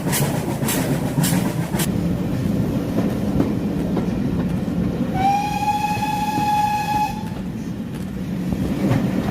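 Steam locomotive sound for a GWR Small Prairie tank engine: regular chuffs about twice a second that stop about two seconds in over a steady rumble, then a whistle held for about two seconds near the middle. The sound cuts off suddenly at the end.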